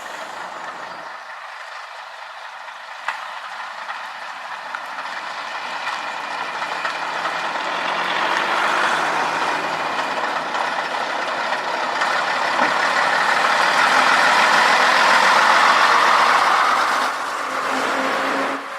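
A train running past, a steady rumble and rush of noise that builds over about ten seconds, then drops off suddenly near the end.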